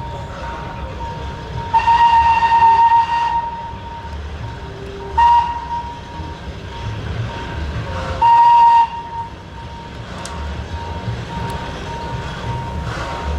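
Whistle of the SL21, a 28-ton Shay geared steam locomotive, blown three times: a long blast, a short one, then a slightly longer one, over a low rumble.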